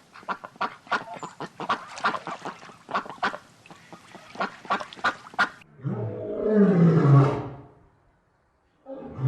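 Animal calls: a quick run of many short honking calls, then, about six seconds in, one longer, lower call that falls in pitch, with another like it starting near the end.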